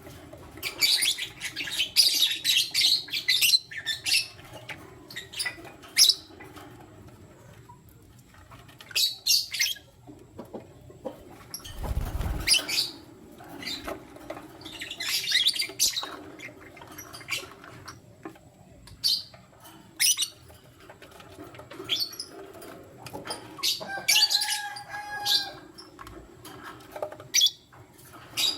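Lutino lovebirds chirping: bursts of rapid, high-pitched chirps and single sharp chirps, with a short low thump about twelve seconds in.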